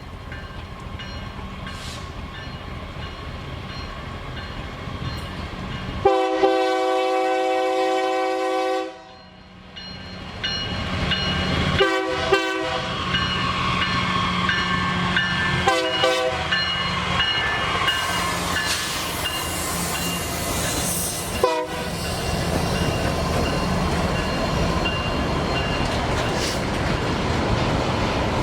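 Diesel freight train approaching and passing, its locomotive sounding a multi-tone air horn: one long blast about six seconds in, then several short blasts. The rumble of the locomotive and the clickety-clack of the wagons run on steadily after.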